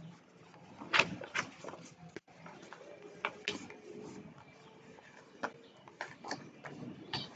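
A paper sheet being folded and creased by hand: a scattered series of short crinkles and taps at irregular intervals.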